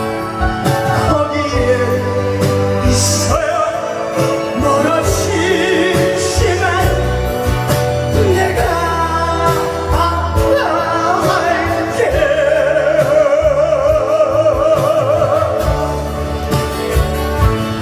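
A singer performing a song over amplified backing music with sustained bass notes. About twelve seconds in, the singer holds a long note with strong vibrato.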